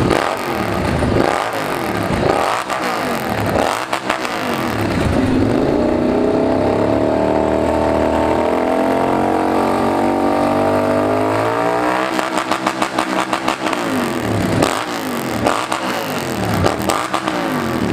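Superbike engine revving hard. It blips up and down for the first few seconds, is held at high revs for about seven seconds, and then blips quickly again near the end.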